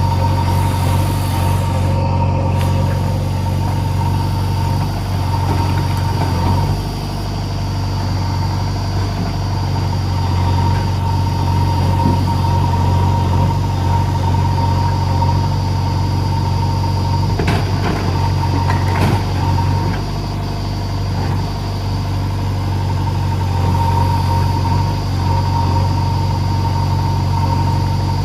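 Diesel engine of a JCB 3DX backhoe loader running steadily under work, its sound easing off briefly twice. A few short knocks come about two-thirds of the way through.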